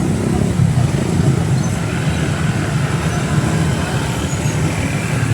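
Steady rumble of road traffic, with motor vehicles running close by.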